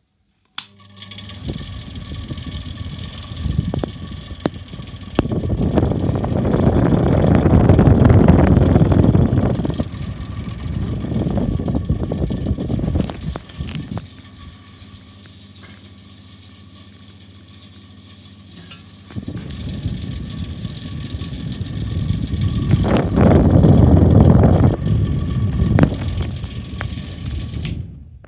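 Vintage Westinghouse floor fan running on bad bearings: a steady motor hum under a loud, rough noise. The noise swells, falls back to the plain hum for several seconds midway, swells again, then stops near the end.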